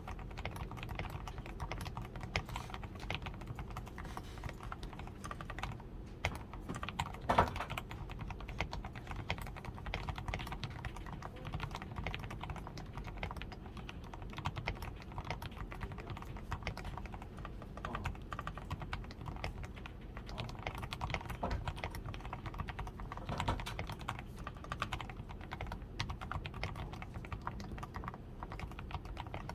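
Continuous typing on a DAREU A87 Pro mechanical keyboard, fully lubed with Krytox 105, PCB tape-modded, with foam-reinforced switches, XDA keycaps and lubed stabilizers: a steady stream of key presses, with one louder key strike about seven seconds in.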